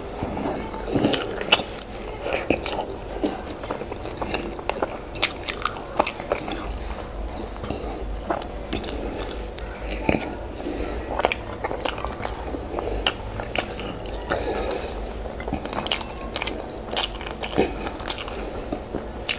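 A person chewing and eating boiled yam and Benin owo stew, with irregular wet smacks and clicks of the mouth that come quickly all through.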